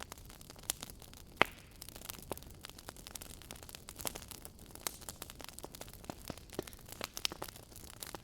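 Fireplace fire crackling: irregular sharp pops and snaps over a faint steady hiss, with one louder pop about a second and a half in.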